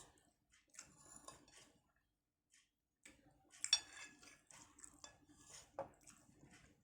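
Cutlery clinking and scraping on a plate while eating, quietly, with a sharper clink about four seconds in and another near six seconds.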